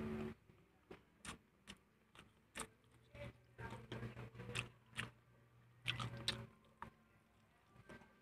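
Close mouth sounds of someone eating fried chicken and rice by hand: irregular wet clicks and smacks of chewing, with a low steady hum for a few seconds in the middle.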